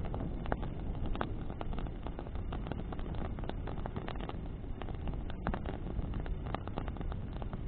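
Bonfire of burning branches crackling, with many short sharp pops scattered through a steady rush of flame and wind.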